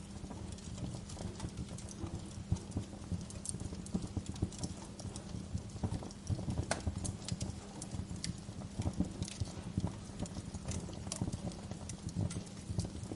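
Wood fire crackling in a fireplace: irregular sharp pops and snaps at varying loudness over a steady low rumble.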